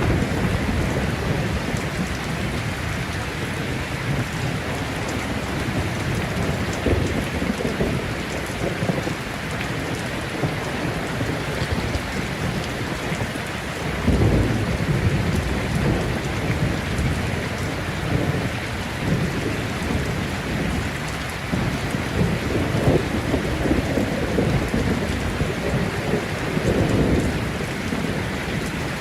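Heavy rain falling steadily through a thunderstorm, with low rolling thunder rumbling underneath and swelling louder about halfway through and again near the end.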